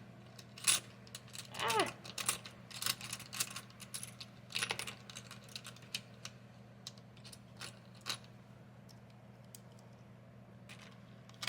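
A run of light clicks, taps and rustles from hands handling cash and budget envelopes. It dies away after about eight seconds.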